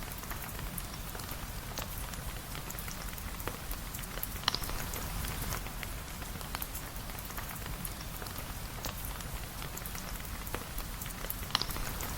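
Steady rain falling on a surface, an even hiss full of small drop ticks over a low rumble. Two sharper, louder pops stand out, one about four seconds in and one near the end.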